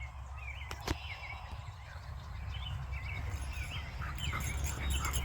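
Small birds chirping: short high calls repeated one or two a second over a low steady rumble, with a single sharp click about a second in.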